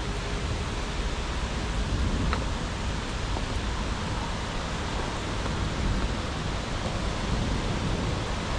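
Steady rain falling, an even hiss, with a single faint drop-like tick about two seconds in.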